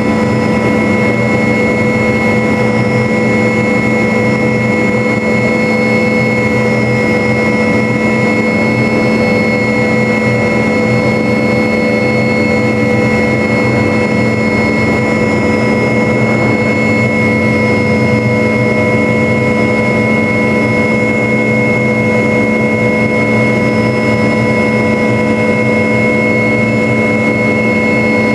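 MD500 helicopter in flight: a steady whine from the turboshaft engine and transmission over the rotor's rumble, heard inside the cockpit.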